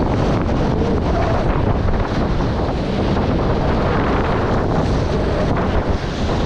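Wind buffeting the microphone over the steady rush of water and waves along a Nacra 20 beach catamaran sailing at speed.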